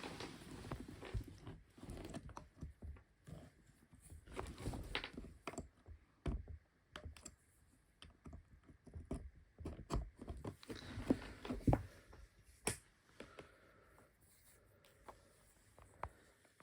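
Irregular handling noise: soft rustling and scattered small clicks and knocks, as of someone moving about and handling gear. The loudest clicks come about eleven and twelve seconds in.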